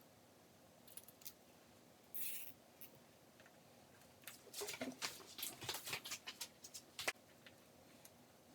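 Small clicks and rustles of hands working stereo wiring-harness wires and their connectors: a short rustle about two seconds in, then a busy run of clicks and rustling in the middle, ending in one sharp click.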